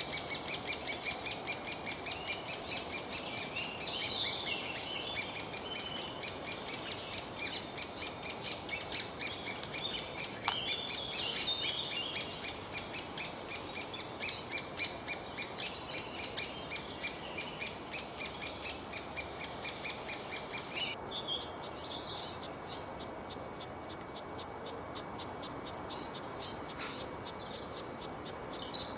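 Several birds chirping and singing in quick, high phrases over a fast, even ticking. About two-thirds through, the ticking stops and the chirps become sparser.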